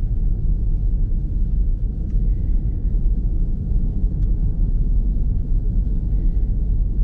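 Steady low rumble of a car driving on a snowy road, heard from inside the cabin: engine and tyre noise, with a few faint ticks.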